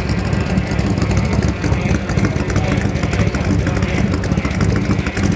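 Ford 427 side-oiler V8 with dual four-barrel carburetors, in a 1965 Shelby Cobra, running at a steady idle with a rapid low firing beat and no revs.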